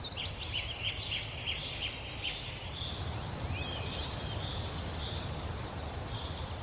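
Rainforest ambience: a bird sings a fast run of short, high, falling chirps, about five a second, with a second chirping trill beneath it. Both stop about halfway through, and a single rising note follows, over a steady low rumble.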